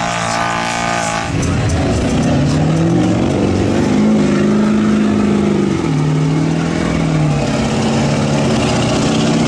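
Big mud truck engine revving. It climbs in pitch, holds high for a couple of seconds, then drops back and holds at a lower pitch.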